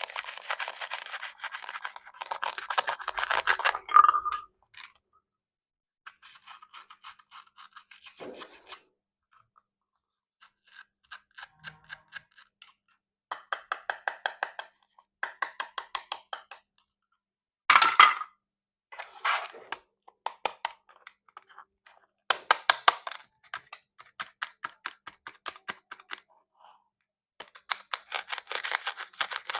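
Plastic play fruit being cut with a toy knife: runs of fast crackling clicks, each lasting a second or a few, with short pauses between them, one sharper, louder run in the middle.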